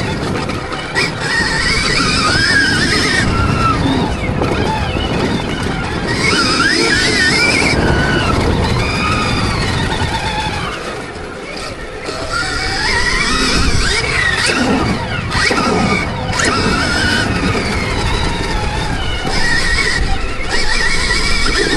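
Motocross bike being ridden round a dirt track, its pitch rising and falling over and over as the throttle is opened and closed.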